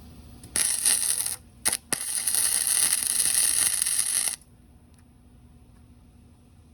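Electric welding arc struck in short bursts: about a second of arc, a brief blip, then a run of about two and a half seconds, each starting and cutting off sharply, as when tacking or welding a gapped joint.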